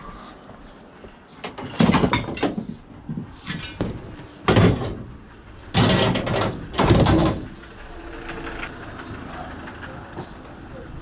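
A run of loud clattering bangs and scrapes, five or six in the first seven seconds, as of scrap metal being handled and loaded into a van.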